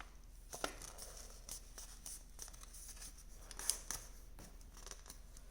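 Paper crinkling and rustling as a partly folded origami crane is folded and creased by hand. Scattered small crackles, the sharpest one about three and a half seconds in.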